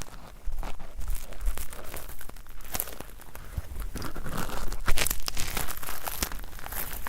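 ASMR ear cleaning: an ear-cleaning tool scraping at stuck earwax in both ears at once, making a dense, irregular run of crackles and scratches, with one sharper crackle about five seconds in.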